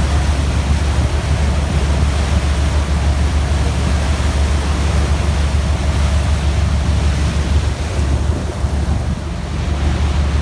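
Wind rushing over the microphone on top of a steady low rumble, which dips briefly near the end.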